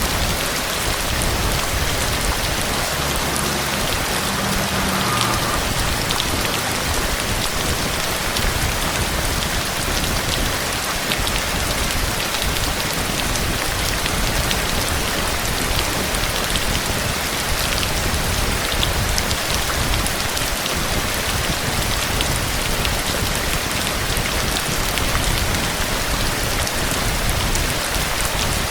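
Heavy rain falling steadily, a dense even patter of drops hitting a surface.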